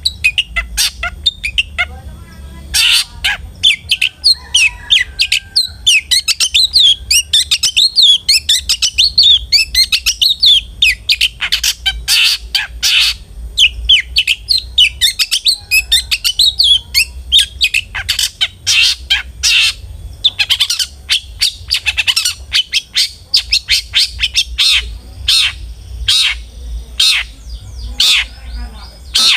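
Long-tailed shrike (cendet) singing: a fast, continuous stream of harsh, squawky notes mixed with squeaky twittering.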